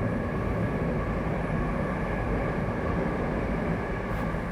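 A train passing close by, a steady noise of wheels running on the rails that holds through and eases slightly near the end.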